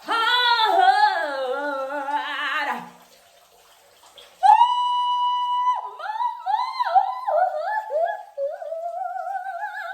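A woman singing a drawn-out note with a wavering pitch for about three seconds. After a short pause comes a higher held note that breaks into short sliding phrases and a slow upward slide near the end.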